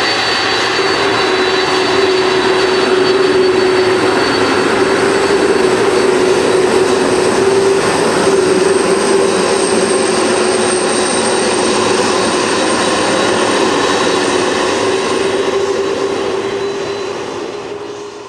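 Jet airliner's engines running loud and steady, a dense roar with a high whine over it, fading away near the end.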